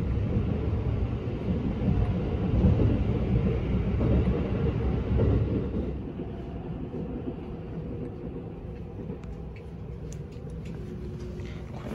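E257 series limited express train running on the line, heard from inside the carriage as a steady low rumble. The rumble drops noticeably about halfway through.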